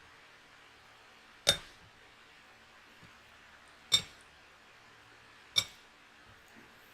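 Three sharp clinks of tableware, each ringing briefly, spaced a second or two apart over a faint steady hiss.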